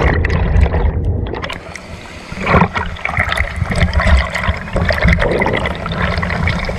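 River water sloshing and splashing close to the microphone, with a low rumble and a louder rush about two and a half seconds in.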